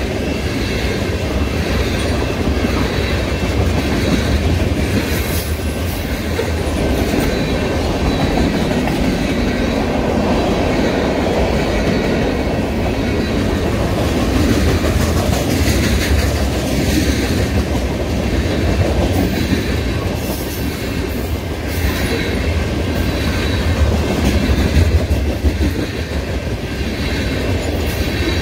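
Freight train tank cars rolling past at close range: a steady rumble of steel wheels on rail with clickety-clack and a few sharp clicks as the wheels cross the rail joints.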